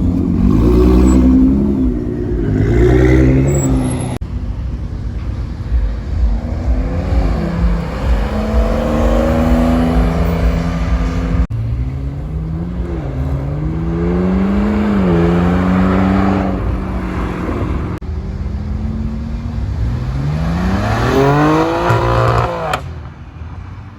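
Sports car engines revving and accelerating away, the pitch climbing and dropping again and again as the cars pull out. The sound cuts abruptly from one car to another several times, with a steady low rumble beneath.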